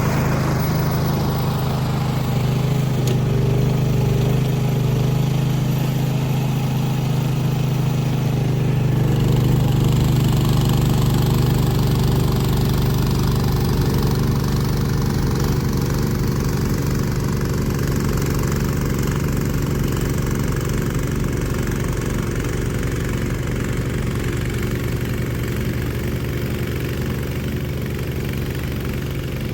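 Snowblower's small gasoline engine running steadily at a constant speed.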